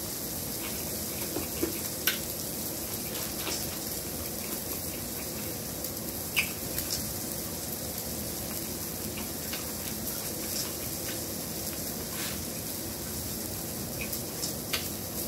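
A person eating corn on the cob: scattered short, wet mouth clicks and chewing over a steady hiss.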